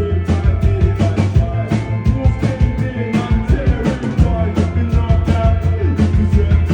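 Live rock band playing a song, with drums keeping a steady beat over bass and guitar, and some singing.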